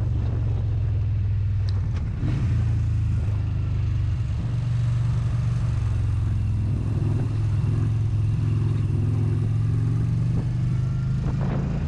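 Motorcycle engine running at a steady low pitch.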